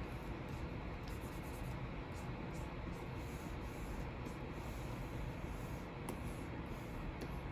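Pen nib scratching and rubbing over the surface of a Wacom Cintiq 24 Pro pen display in drawing strokes, over a steady hiss, with a couple of faint taps.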